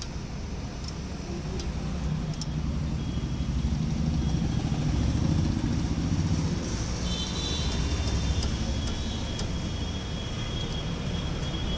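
A low rumble that swells through the middle and then eases, with a few light clicks scattered through it.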